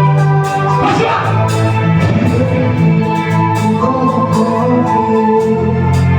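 Worship music: held organ-like keyboard chords with a light percussion pattern ticking on top.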